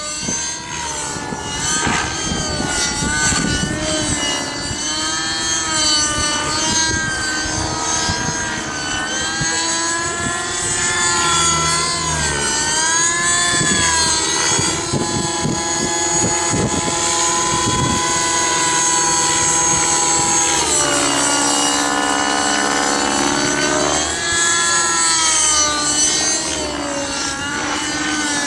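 Align T-REX 600 nitro RC helicopter's 55H glow engine and rotor blades during 3D aerobatics: the pitch keeps swinging up and down as the blades load and unload. About three quarters of the way through it sags lower for a few seconds, then climbs back. Wind rumbles on the microphone.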